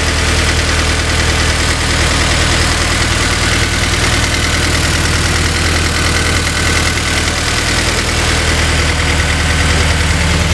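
Honda S2000's four-cylinder engine idling steadily, freshly started after engine work and warming up.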